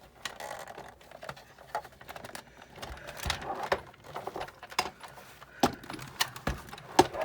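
Parts of a Sizzix Big Shot die-cutting machine handled during disassembly: irregular clicks, knocks and rattles over a rustling handling noise.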